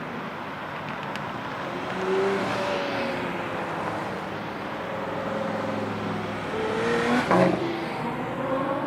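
Racing car engines revving hard on a circuit, more than one heard at once, their pitches rising and falling through gear changes. The loudest moment is a car going by close about seven seconds in.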